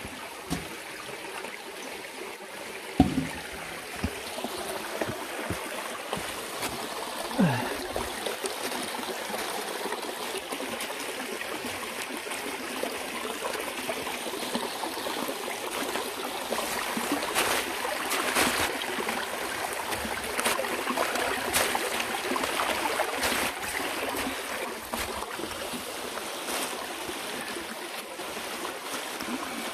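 Mountain valley stream running and trickling over rocks, a steady rush of water that swells louder midway. A couple of sharp knocks in the first eight seconds, the loudest about three seconds in.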